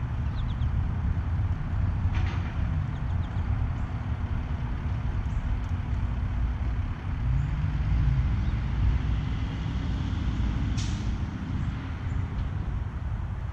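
Low rumble of a motor vehicle's engine, swelling and easing as it goes by, with a few faint, short bird chirps and one sharper high call near the end.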